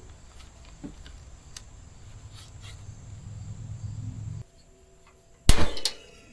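Low steady rumble that cuts off abruptly, then two sharp clacks close together near the end, each with a short ring: cooking utensils knocking on a steel griddle top.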